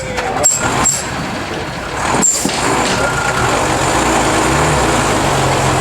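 Unimog truck's diesel engine running hard, with a dense rush of noise. It gets louder from about two seconds in.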